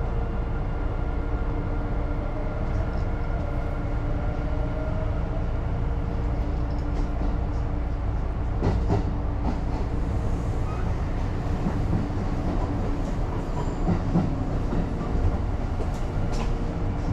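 Interior noise of a moving electric commuter train: a steady low rumble of wheels on rails under a humming motor tone, with a faint whine rising in pitch over the first few seconds. From the middle on come scattered clicks of the wheels over rail joints.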